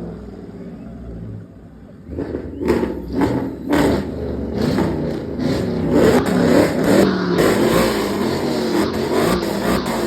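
A car engine revving hard from about two seconds in, its pitch rising and falling, with sharp cracks through it.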